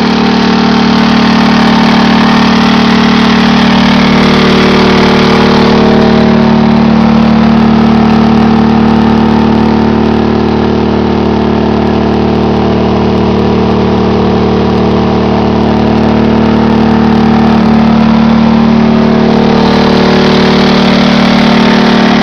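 Champion 2000-watt inverter generator (model 73531i) running steadily under near-full load from a 1500-watt heater and a fan. Its engine holds an even, droning hum, with a slight change in tone a few seconds in and again near the end.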